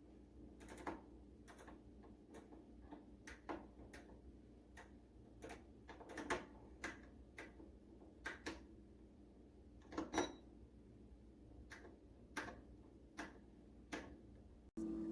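Faint, irregular clicks from the control dial of a Cuisinart TOA-65 air fryer toaster oven being turned, about one or two clicks a second.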